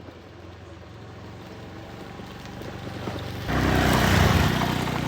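A motor vehicle's engine running and growing louder, then a sudden loud rush of noise about three and a half seconds in that slowly dies away.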